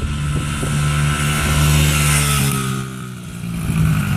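Motorcycle engine running. The engine noise swells about two seconds in, eases off a little after three seconds, then picks up again near the end.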